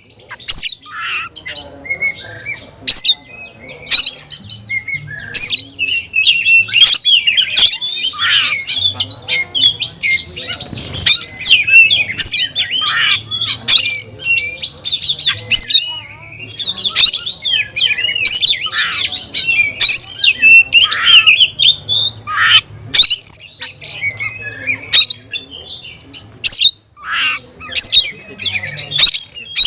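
Oriental magpie-robin (kacer) singing without pause: a fast, varied stream of high whistles and chirps mixed with harsh squawking notes and sharp clicks.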